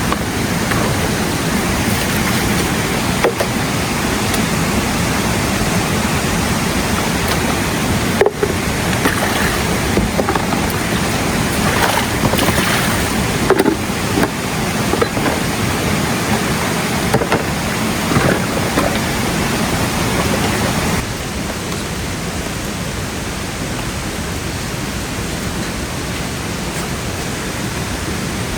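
Steady rushing noise of water, with a few faint short sounds in the middle. It drops to a lower, even level about three-quarters of the way through.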